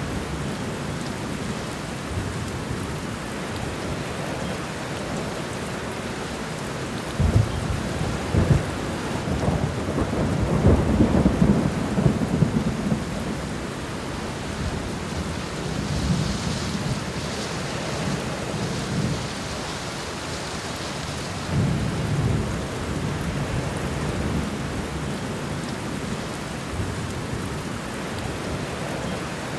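Steady rain with thunder. About seven seconds in come two sharp cracks that build into a loud rolling rumble lasting several seconds, and a softer rumble follows later.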